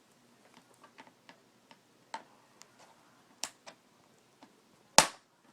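Plastic snap clips of a flat-screen TV's case popping loose as the back cover is pried off with a flat-tip screwdriver: irregular small clicks, a couple of louder snaps, and one loud crack near the end. It sounds as if the case is breaking, but it is the normal sound of the clips releasing.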